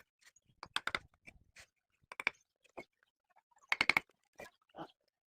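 Sharp knocks and clicks in small clusters: a few about a second in, a couple near two seconds, and a bright run of several just before four seconds.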